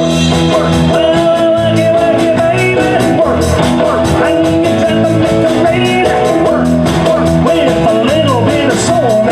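Live rock and roll band playing: electric guitar lines over bass and a steady drum beat.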